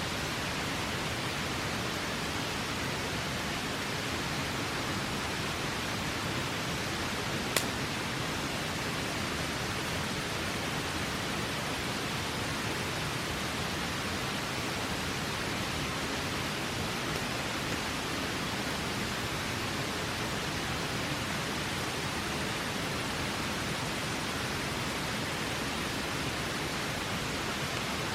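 Steady rush of flowing river water, with one sharp campfire crackle about seven and a half seconds in.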